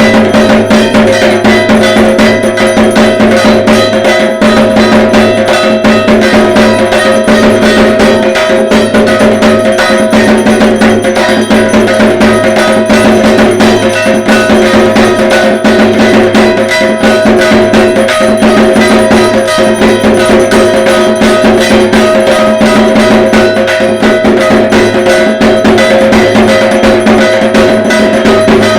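Dhak, the Bengali barrel drum of Durga Puja, beaten in a fast, unbroken rhythm, with a steady metallic ringing over the drumming.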